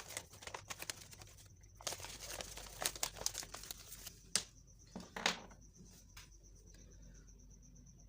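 Packaging being handled and unwrapped, with crinkling and rustling and a few sharp crackles, dying away about five and a half seconds in. A faint steady high-pitched tone runs underneath.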